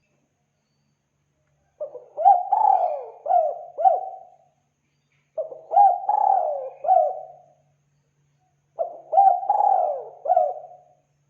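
Spotted dove cooing: three song phrases, each a quick run of four or five coos lasting about two and a half seconds, the first starting nearly two seconds in.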